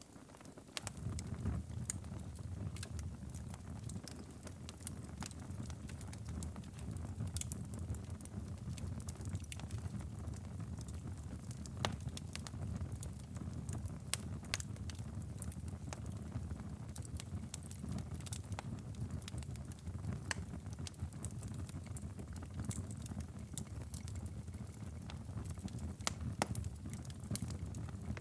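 Wood fire crackling and popping in a fireplace, with scattered sharp pops over a steady low rumble. The sound swells up about a second in.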